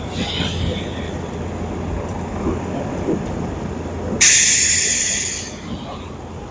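Heavy diesel road-works machinery running with a steady low rumble. About four seconds in comes a sudden loud hiss of released air, a truck's air brakes, which fades away over a second or so.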